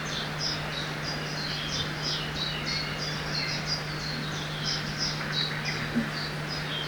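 Forest ambience by a river: many small birds chirping, with short high chirps repeating several times a second throughout, over a steady wash of background noise.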